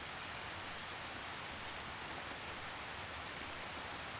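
Steady gentle rain, an even hiss with soft drops pattering on a surface.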